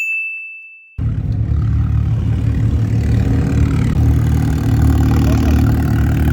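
A short high beep, then about a second of silence, then a car engine running steadily with a low, continuous exhaust note.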